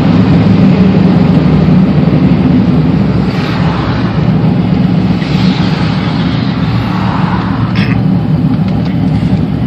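1998 Camaro Z28's V8 engine running under way on a freshly revised tune, a steady low drone heard while driving. It is a little louder for the first two and a half seconds, then eases slightly and holds steady.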